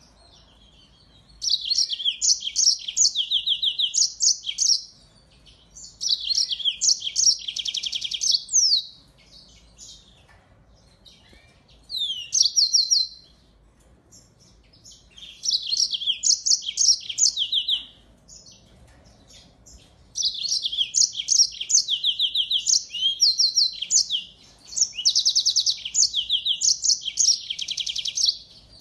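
A captive finch singing in repeated bursts of fast, high-pitched trills and quick chattering notes, each phrase lasting one to five seconds with short pauses between, about six phrases in all.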